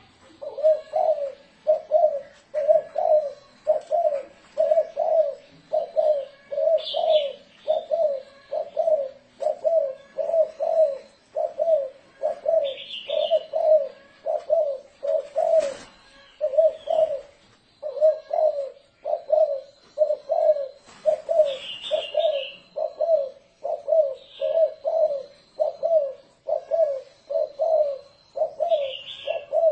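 Spotted dove cooing in the long, rolling 'thổ rền' style: an unbroken run of short, low coos, about three every two seconds.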